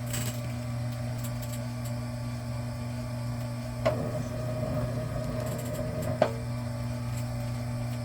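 Electric wire stripping machine's motor running with a steady hum. Two sharp knocks come about 4 and 6 seconds in, with a brief rattle between them.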